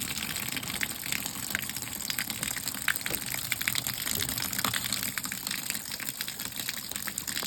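Water pouring steadily into the tub of a LAVARIO hand-operated washing machine loaded with clothes, with a continuous gushing splash, as the machine is being filled for a wash.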